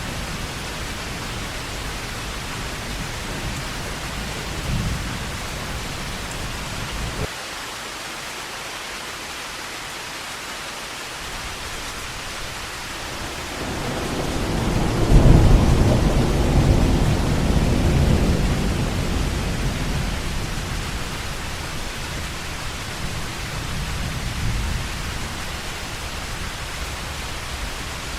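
Heavy rain falling steadily, with a roll of thunder that swells from about halfway in, peaks and rumbles away over several seconds.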